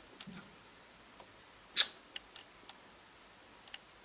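A few sharp clicks and light knocks from handling the opened Roland U-110 sound module around its loose, wobbly power switch, with one louder click about two seconds in.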